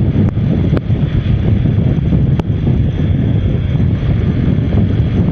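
Wind buffeting the microphone of a moving motorcycle, a steady low rumble of wind and road noise with the bike running underneath. A few faint ticks sound in the first couple of seconds.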